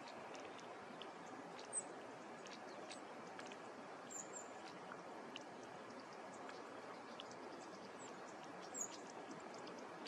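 Steady outdoor background noise with a handful of short, high bird chirps scattered through it.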